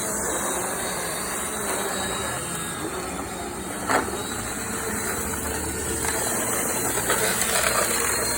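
Power Force compact vacuum cleaner running steadily with a rushing, hissing air sound as it sucks at the grass; one sharp knock about four seconds in.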